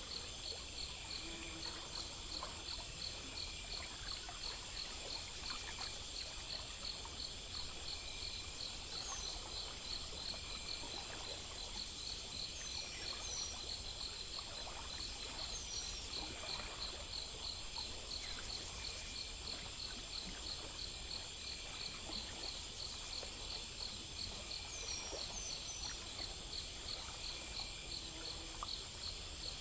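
Crickets chirping in steady, even pulses of about three a second, over a continuous high insect drone and a faint trickle of running water. A few short high chirps come and go.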